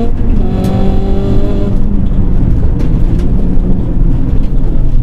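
Rally car engine heard from inside the cabin, held at high steady revs, then lifting off about two seconds in as the car slows. After that the note falls to a lower, rougher rumble under road noise.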